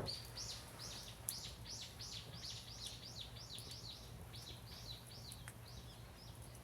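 A bird singing a long series of high, arched notes, about three a second, growing weaker near the end, over faint background noise.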